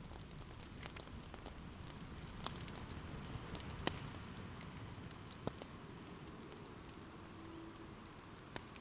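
Campfire burning, with irregular sharp crackles and pops over a steady low hiss of freshly added wood.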